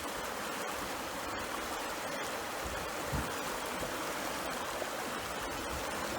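River water rushing steadily over a riffle, an even hiss with a brief soft low bump about three seconds in.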